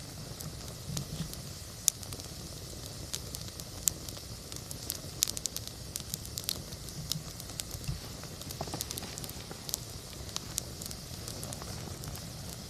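Wood campfire burning, with a steady hiss and frequent irregular sharp crackles and pops.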